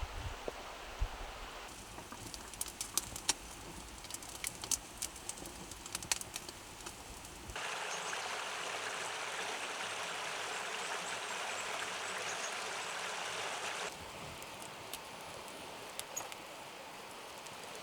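Steady rush of a flowing stream, with many sharp crackles and pops from a wood campfire in the first half. For several seconds in the middle the water sound is louder and brighter, switching in and out suddenly.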